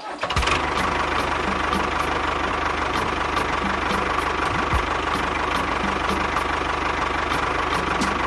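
Mini tractor's engine running steadily at idle, with a fast even knock and sharp ticks about three times a second.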